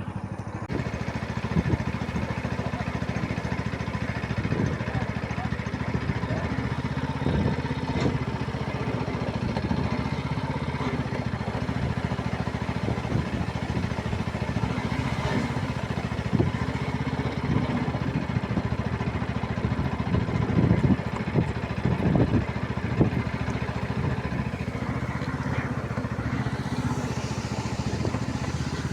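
A motor engine running steadily at a low, even pitch, with occasional faint voices over it.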